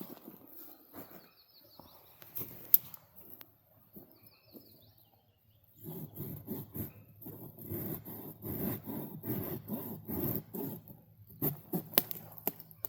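Bow drill spindle rubbing in a wooden fireboard: quiet handling at first, then rapid back-and-forth sawing strokes starting about six seconds in, followed by a few sharp wooden knocks near the end.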